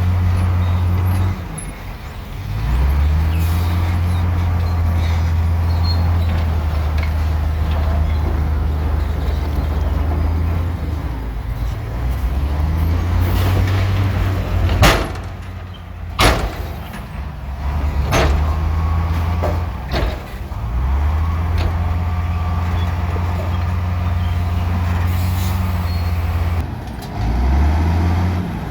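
Heavy diesel engine of earthmoving machinery running under load, its low drone dropping and picking up again several times as the load changes. Several sharp knocks come about halfway through.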